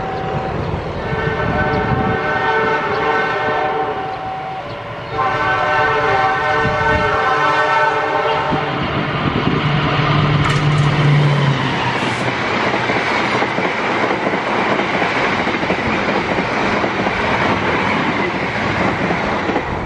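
Diesel locomotive air horn sounding two long chord blasts, followed by the loud rush and wheel clatter of the locomotive and its passenger train passing close by at speed.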